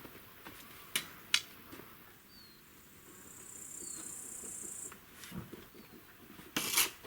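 A high, steady insect buzz lasting about two seconds, with two sharp clicks about a second in and a brief loud crackle near the end.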